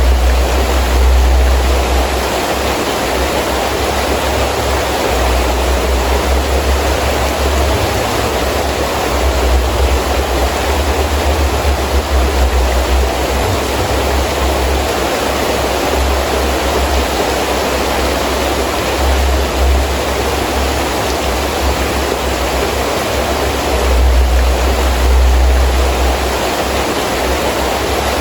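Heavy rain falling steadily, with gusts of wind rumbling low in surges that swell and fade every few seconds.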